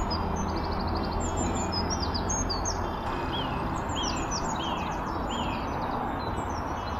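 Several songbirds singing at once: a mix of quick chirps and trills, with one bird repeating a short arched note about four times, over a steady background hiss.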